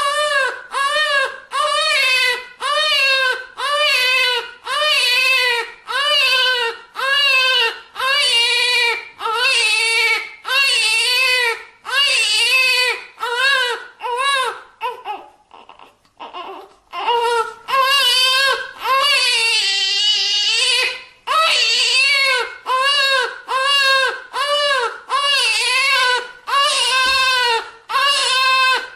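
Newborn baby crying in short, repeated wails, about one and a half a second, each rising and falling in pitch. The crying breaks off for a couple of seconds past the middle, then comes back with one longer wail before the short ones resume.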